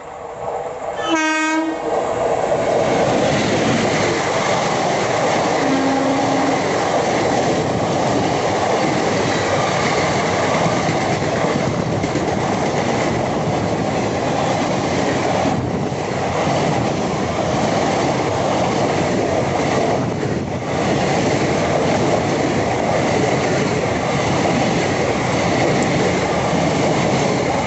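Indian Railways express passenger train passing at speed: a short horn blast about a second in, then the steady rush and rattle of the coaches and wheels going by on the track.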